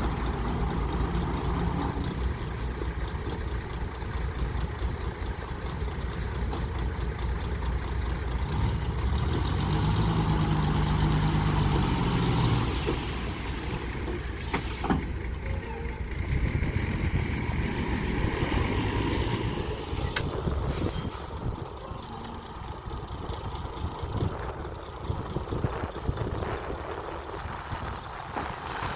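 Heavy diesel engine of earthmoving machinery, a bulldozer at work, running steadily and revving up under load about ten seconds in. Two short, sharp hissing bursts come near the middle.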